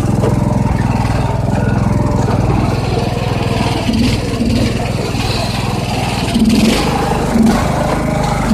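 Riding lawn mower engine running steadily on its stock exhaust, the note dipping slightly about halfway through.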